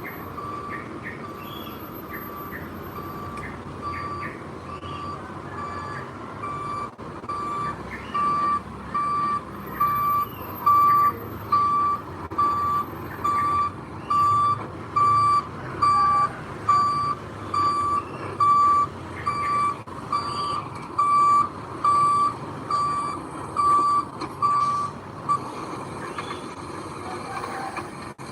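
A heavy vehicle's reversing alarm beeping steadily, about once a second, over the low running of its diesel engine; the beeps grow louder partway through and stop near the end.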